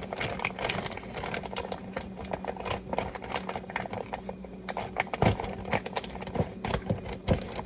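Scissors snipping and a bag crinkling as a recipe is cut from the back of a bag of chicken, with two louder knocks about five and seven seconds in. A steady low hum runs underneath.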